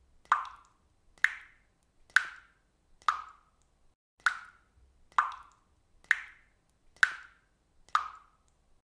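Faucet dripping water, single drops plopping at an even pace of about one a second, ten in all. Each drop is a sharp, short plop with a brief ring.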